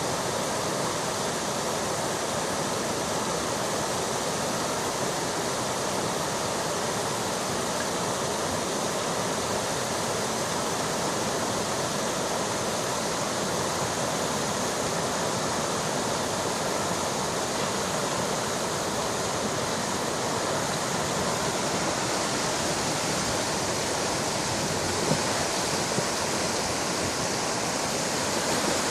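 Rushing river water, a steady even noise with no breaks.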